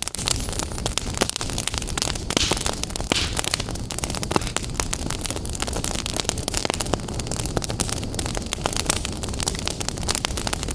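Fire burning in a fireplace: many irregular crackles and pops over a steady hiss and low rumble.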